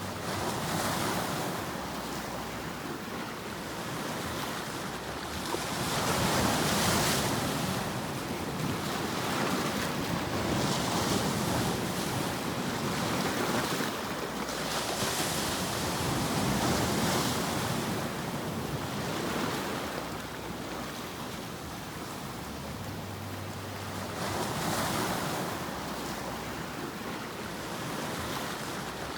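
White noise sleep track: a continuous rushing hiss that swells and fades every few seconds, like surf rolling in.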